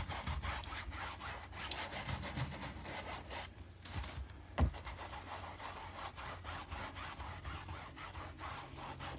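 Paintbrush scrubbing paint onto a canvas in rapid back-and-forth strokes, laying on another coat of the sky colour, with a brief pause and a single sharp knock about halfway through.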